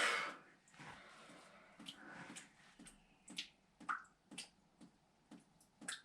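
Water from a leaking mains pipe dripping through the ceiling into a bucket: short sharp drips, about two a second, beginning about halfway in, as the leak slows down.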